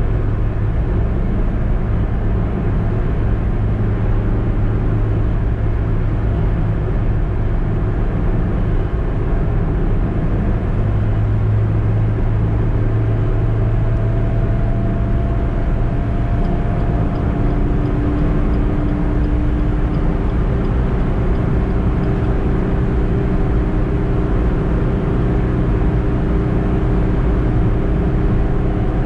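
Suzuki EECO's 1.2-litre four-cylinder petrol engine and road noise while driving: a steady hum whose engine tones shift a little about halfway through.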